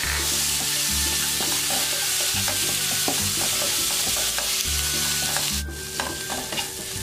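Peeled shrimp and spice paste sizzling in margarine in a non-stick wok, stirred with a spatula that scrapes and clicks against the pan. The sizzle drops abruptly about five and a half seconds in.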